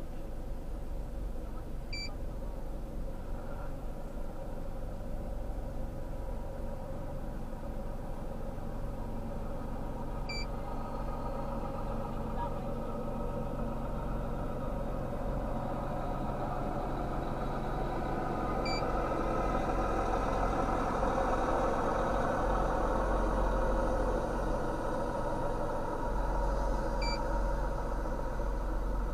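A vehicle engine running steadily, with a short high electronic beep repeating four times, about every eight seconds.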